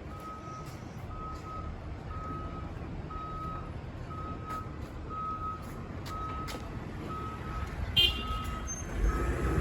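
Heavy-equipment backup alarm beeping at a steady pitch, a little over one beep a second, over the low rumble of diesel machinery. A brief sharp sound comes about eight seconds in, and the engine rumble grows louder near the end.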